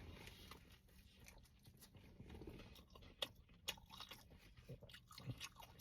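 Faint close-up chewing of a mouthful of food, with a few short, sharp crunches and mouth clicks in the second half.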